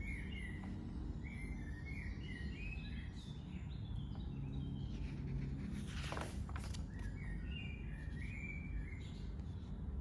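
Small birds chirping in the background, short quick chirps in runs of several notes, over a low steady hum. About six seconds in there is a brief rustle.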